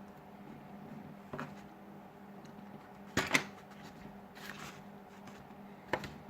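A few small clicks and knocks of tools and phone parts being handled on a work surface, the loudest a double knock near the middle.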